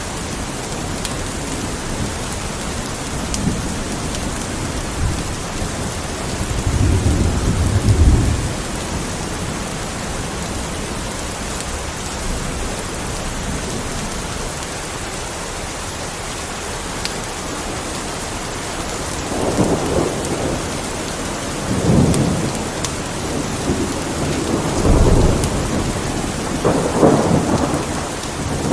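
Steady heavy rain with rolls of thunder: one rumble about seven seconds in, then several more in the last ten seconds.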